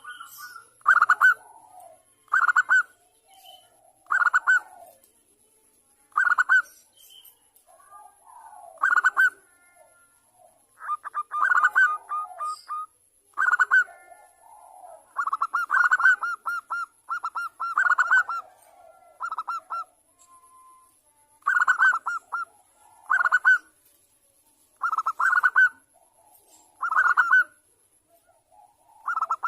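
Zebra dove (perkutut, Bangkok strain) cooing: short runs of rapid stuttering coos, repeated about every one and a half to two seconds.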